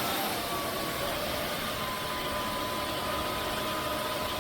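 Narwal S20 Pro cordless wet-dry vacuum mop running steadily, its motor giving an even whooshing noise with a faint steady whine.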